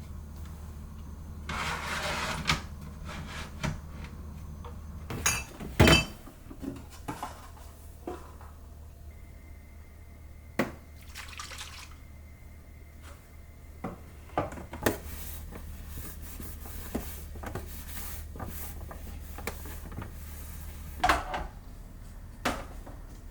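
Kitchen handling sounds: dishes and storage containers clinking and knocking as they are picked up and set down, with a short rushing noise near the start and a louder double knock a few seconds in.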